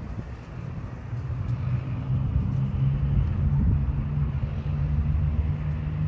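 Low rumble of a motor vehicle engine running, with a steady hum that grows stronger about two seconds in and holds.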